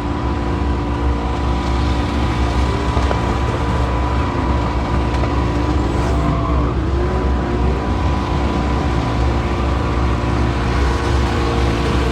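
Vehicle engine running steadily with a constant low rumble and a steady hum over it.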